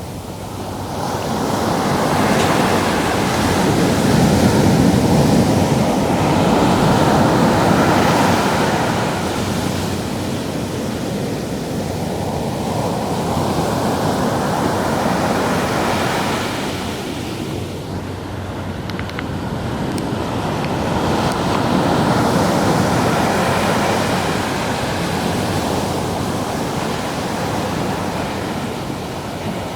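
Ocean waves breaking and washing up the shore, the surf noise swelling and easing in slow surges, with some wind on the microphone.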